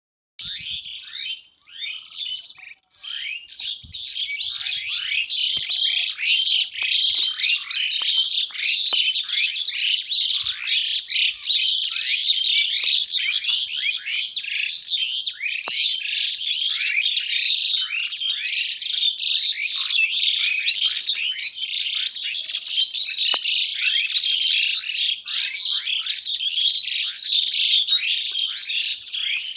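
A flock of small birds chirping together in a dense, unbroken chorus of short, high, falling chirps. It thickens after the first few seconds.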